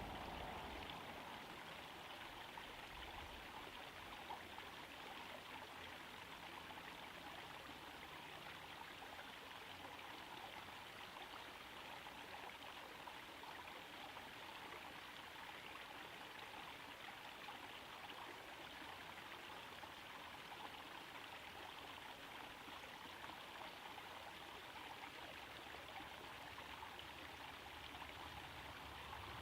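Small garden pond waterfall, water trickling and splashing steadily into the pond.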